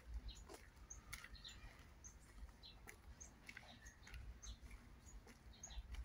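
Faint, short bird chirps scattered throughout, several a second at times, over a low, irregular rumble.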